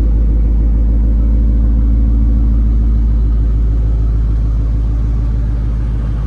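Whipple-supercharged 5.0-litre V8 of a 2016 Ford Mustang GT idling steadily through its dual Flowmaster exhaust, a deep, even rumble that eases slightly after about four seconds.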